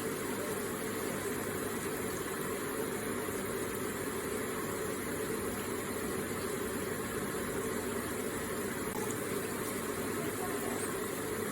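Electric water feature with water splashing steadily and evenly.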